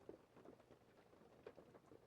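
Faint rain: scattered drops pattering irregularly over a soft background hiss.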